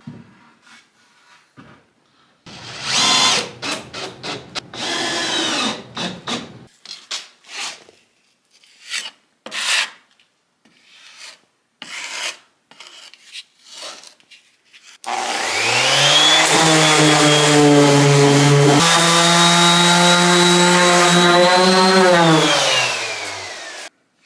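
Woodworking sounds: scattered scraping, rubbing and knocks of wood being handled, then a power tool's motor spins up about fifteen seconds in, runs steadily and loudly for about eight seconds, and winds down near the end.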